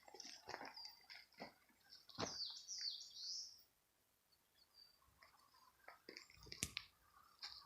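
Several kinds of small forest birds chirping and twittering, faintly. A busier run of high warbling notes comes between about two and three and a half seconds in. A few short crackles or knocks are mixed in, the sharpest near the end.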